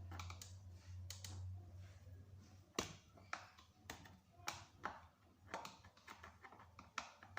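Faint clicks and taps of a screwdriver working the rear screws out of a barber chair's headrest, about two a second in the second half, with a low hum in the first two seconds.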